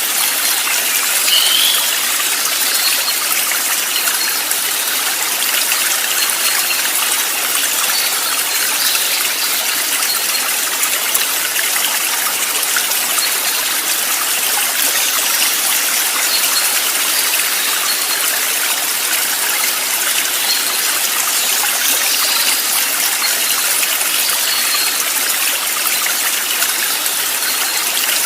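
Steady rushing of a flowing stream, with a few faint short high chirps over it.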